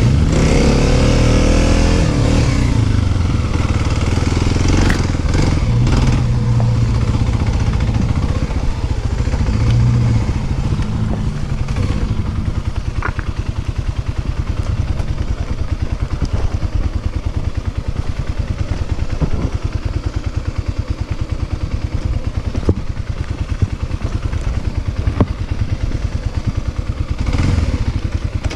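Dirt bike engine revving up in the first couple of seconds, then running hard and steady, easing to lower, steadier running after about ten seconds, with a few sharp knocks along the way.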